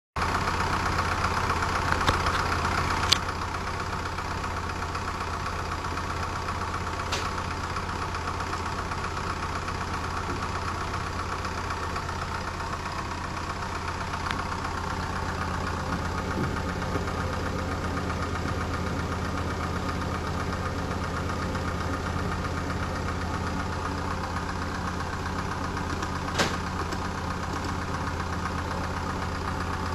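Medion PC's Radeon graphics card cooler running with a steady drone that sounds like an idling diesel engine. It is a little louder for about the first three seconds, then drops after a sharp click; a couple more clicks come later.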